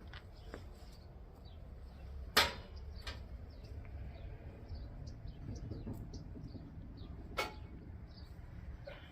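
Two sharp knocks about five seconds apart as bisque-fired ceramic pieces are handled. Small birds chirp faintly throughout.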